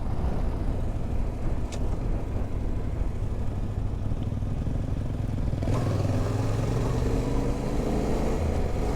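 Yamaha Ténéré 700's parallel-twin engine running under way, with steady wind and road noise. A bit over halfway through, the engine note steps up and climbs slowly as the bike accelerates.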